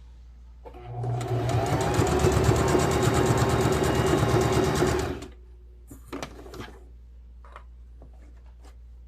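Electric sewing machine stitching a seam, starting up about a second in, running steadily for about four seconds and stopping, followed by a few short clicks.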